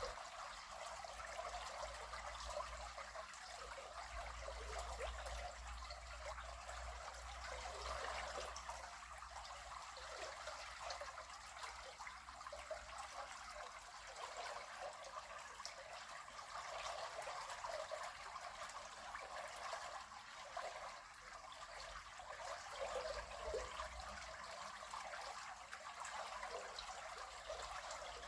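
River water flowing and trickling in a steady, even babble.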